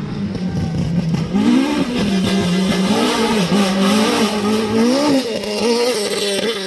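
Rally car at speed on a gravel stage: its engine pitch rises and falls repeatedly as the driver accelerates and lifts, over a steady hiss of tyre and gravel noise.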